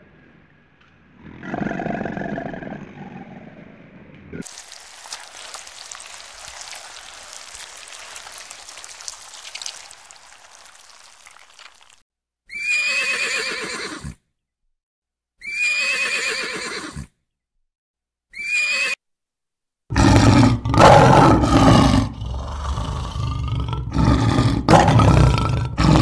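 A series of different animal calls, one after another. A low call comes first, then a steady hiss for several seconds, then three short high neighing calls that fall in pitch with silent gaps between them, and a loud rough roaring over the last six seconds.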